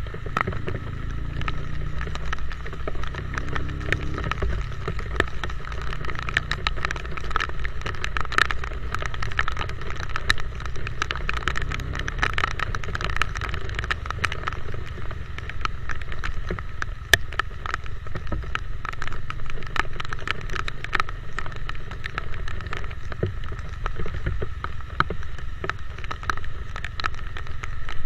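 Motorcycle riding on a wet road in the rain: a steady engine hum and road noise, with many small ticks on the microphone throughout.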